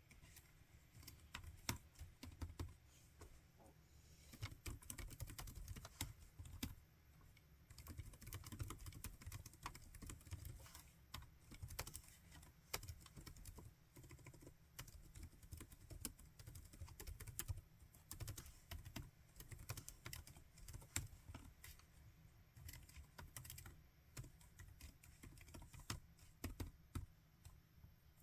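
Typing on a laptop keyboard: quick, irregular runs of soft key clicks with short pauses between bursts.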